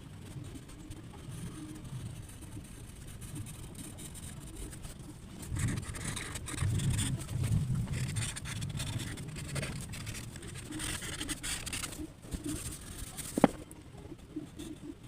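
Scratching and rubbing of drawing on paper, with a low rumble through the middle and one sharp click near the end.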